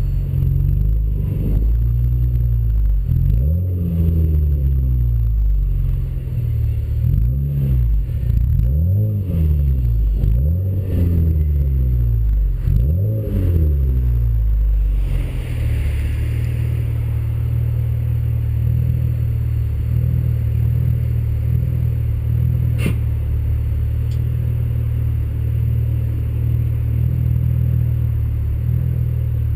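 Honda Accord V6 (RV6) with a J-pipe and aftermarket cat-back exhaust, free-revved about seven times in quick succession, each rev rising and falling in pitch. It then settles into a steady, deep idle, with one sharp click about two-thirds of the way through.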